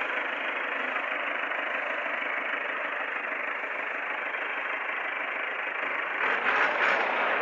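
Millat tractor's diesel engine running steadily, getting louder about six seconds in.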